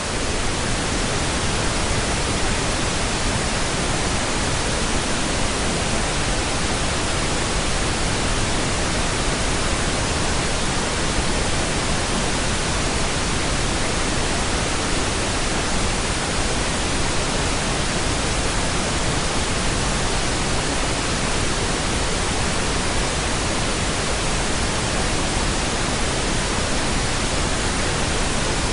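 Steady pink noise: an even, unbroken hiss with no changes.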